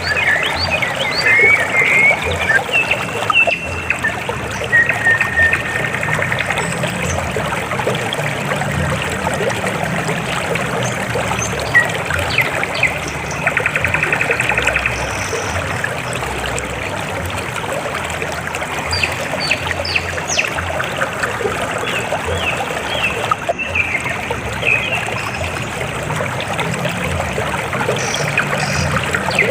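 River water flowing steadily, a continuous trickling rush. High chirps and short trills come and go over it, a few near the start, a patch in the middle and more near the end.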